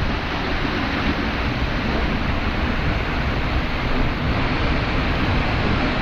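Seljalandsfoss waterfall's falling water: a steady, unbroken rushing noise.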